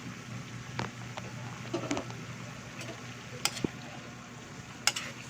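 Chicken frying in a cooking pot with soy sauce, a steady sizzle, while a spoon stirs it. There are several short scrapes and light knocks of the utensil against the pot.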